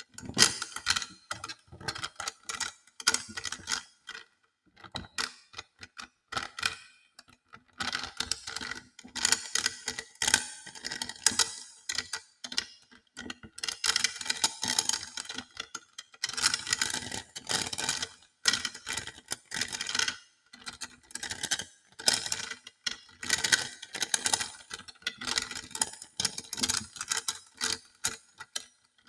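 Hand-exercise walnuts (hodo balls) rolled and rubbed in the hands, clacking against each other in rapid runs of clicks with short pauses between the runs.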